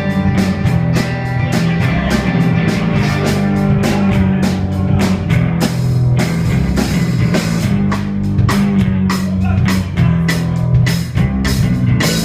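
Rock music: a drum kit keeps a steady beat under a heavy bass line and guitar in an instrumental passage without vocals.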